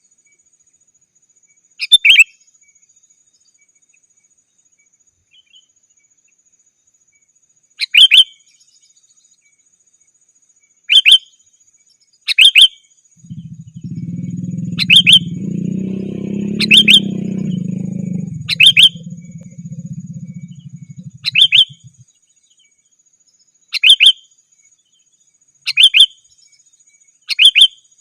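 Sooty-headed bulbul giving short, loud chirping phrases every couple of seconds. From about halfway to three quarters of the way through, a low rumble runs underneath.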